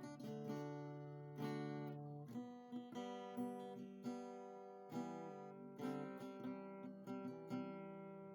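Background music: acoustic guitar playing, plucked and strummed chords that change every second or so.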